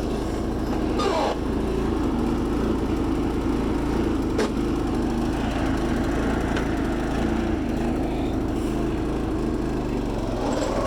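Predator 212 single-cylinder engine running steadily on a Sears Suburban garden tractor as the tractor drives along. A single sharp click about four and a half seconds in.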